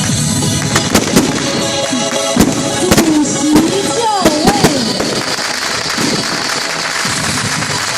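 Daytime fireworks going off in a rapid, irregular string of sharp bangs and pops.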